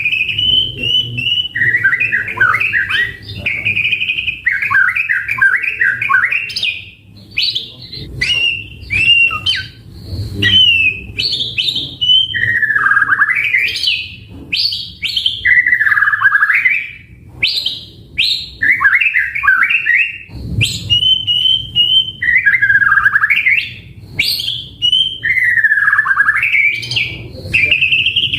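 White-rumped shama (murai batu) singing continuously: a string of varied, loud whistled phrases, quick trills and notes sweeping down and back up, one after another with short gaps.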